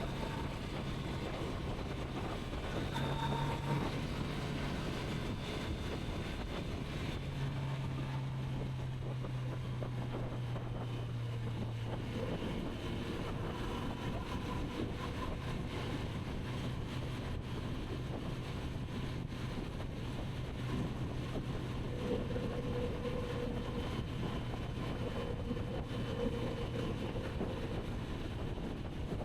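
Kawasaki Z900RS inline-four engine running at steady cruising revs, with small changes in pitch as the throttle varies. Wind rushes over the microphone throughout.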